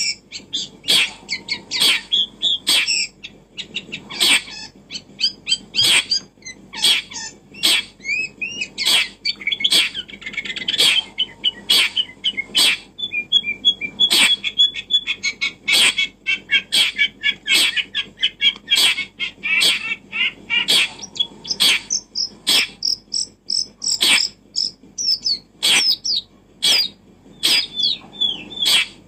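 Birds chirping and calling continuously: a busy mix of high chirps and many short, sharp notes, a bit more than one a second.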